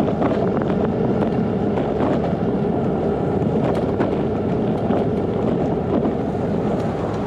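Steady wind rushing over the microphone while riding a bicycle, mixed with road and tyre noise and a few light rattling clicks.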